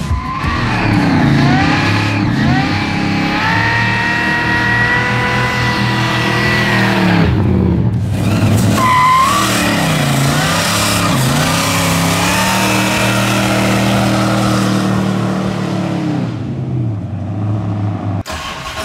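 Supercharged V8 in a Chevelle SS revving hard through a burnout, with tyres squealing. The engine pitch climbs and falls several times and drops away briefly about eight seconds in.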